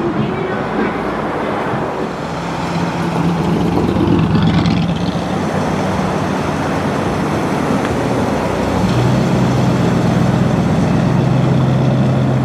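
Classic custom cars driving slowly past with their engines running at low revs. A deeper, steady engine note comes in about nine seconds in.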